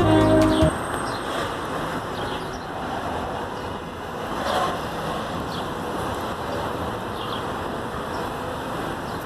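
Jazz music with brass ends abruptly just under a second in, leaving steady outdoor traffic noise from roads, with a few faint, high bird chirps over it.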